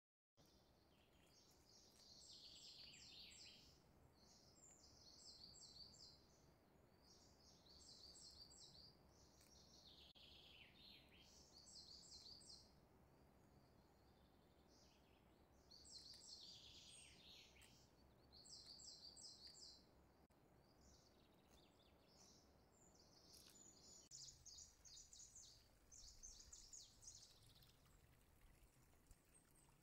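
Faint birdsong: short, quick twittering phrases repeated every couple of seconds, some ending in a falling sweep, over a low steady hiss.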